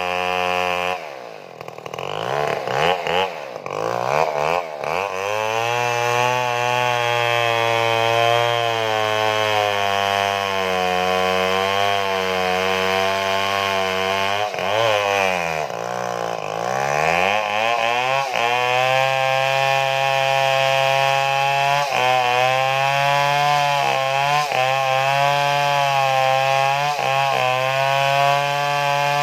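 Stihl chainsaw engine running at high revs while cutting wood. Its pitch drops and climbs back twice, in the first few seconds and about halfway through, with a few short dips near the end.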